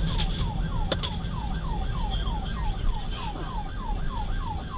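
Police car siren in a rapid yelp, falling sweeps at about three a second, over the rumble of the pursuing car's engine and road noise. A sharp click comes about a second in.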